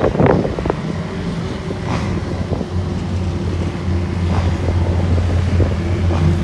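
Trail motorcycle engine running at a steady, low hum, with wind buffeting the microphone. A voice is heard briefly at the very start.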